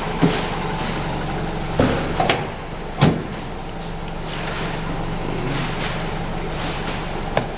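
Toyota 1AZ-FSE 2.0-litre four-cylinder petrol engine idling steadily during a running check. Several short clunks sound over it, like a door or panel being handled, the loudest about three seconds in.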